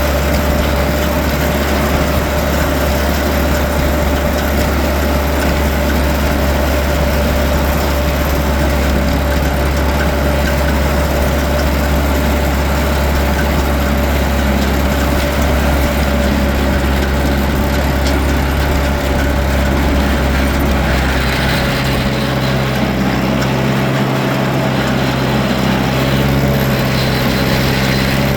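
Tractor engine running steadily, its low note changing about three quarters of the way through.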